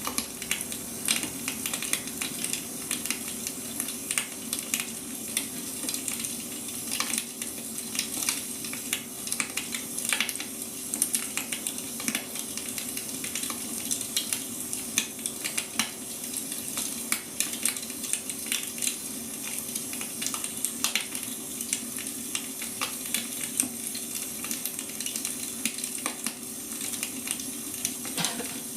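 Wood fire crackling steadily, with frequent irregular sharp pops and snaps from the burning logs.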